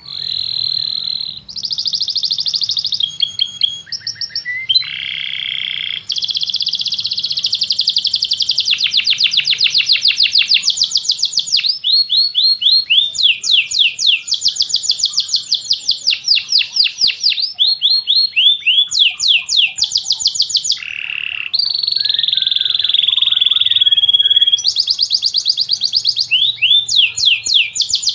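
Domestic canary singing a long, unbroken song of fast repeated trills and rolls, moving from one trill type to the next every second or two.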